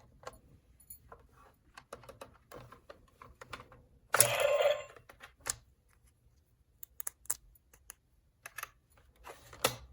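Small hard plastic toy pieces clicking and tapping as they are handled and fitted together, in scattered irregular clicks. There is one louder rustle of about a second a little over four seconds in.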